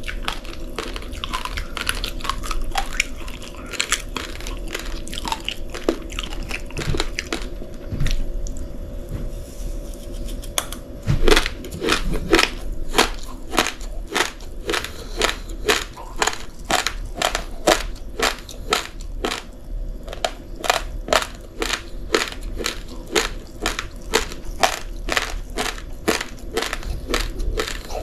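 A person chewing raw, uncooked rice grains close to the microphone: hard, crisp crunches. They are scattered at first, then come steadily about three a second from roughly eleven seconds in. A faint steady hum lies underneath.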